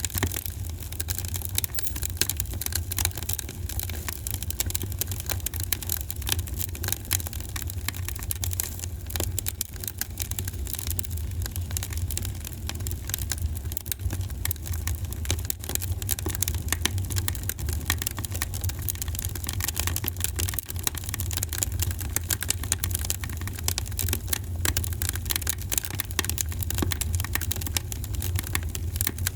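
Wood fire crackling in a fireplace: dense, irregular small pops and snaps over a steady low rumble.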